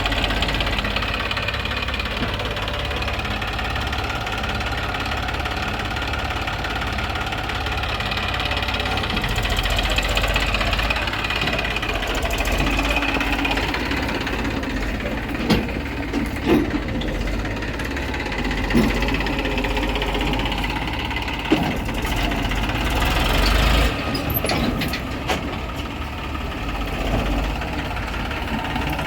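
Diesel engine of a backhoe loader and tractor running steadily, with a few short sharp knocks about halfway through.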